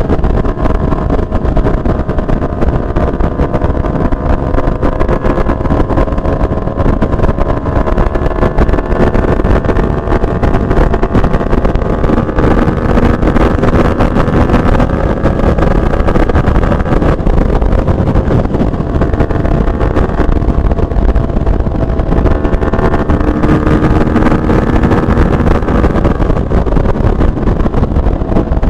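Benelli TNT 600i's inline-four engine with a Two Brothers exhaust canister, running at a steady cruise under way, its pitch drifting slowly up and down with small throttle changes, over a heavy rush of wind and road noise.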